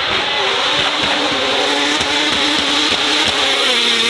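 Racing car engine running hard at high revs, holding a fairly steady pitch, with several short sharp cracks through it.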